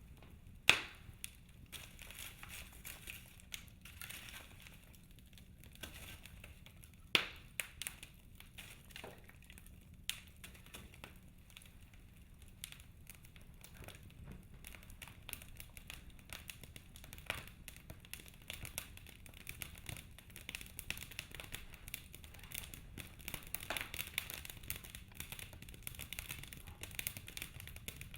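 Wood fire in a fireplace crackling: logs burning with an irregular run of small crackles and a few sharper pops, the loudest about a second in and around seven seconds.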